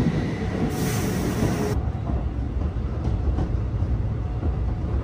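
Electric commuter train running with a steady low rumble. A loud hiss comes in about a second in and lasts about a second. By the end the train is heard from inside the carriage.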